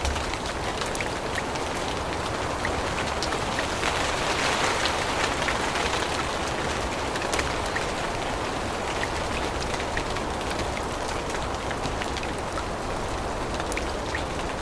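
Steady rain falling on forest foliage, a continuous patter with many separate drops ticking, swelling slightly for a couple of seconds about four seconds in.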